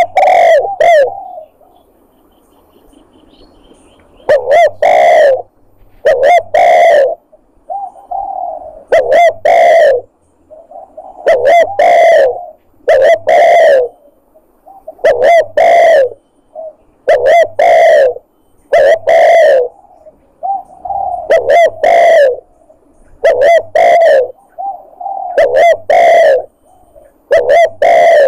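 Spotted dove cooing: loud, repeated coo phrases about every one and a half to two seconds, after a short pause near the start, played as a hunting lure call to draw in wild doves.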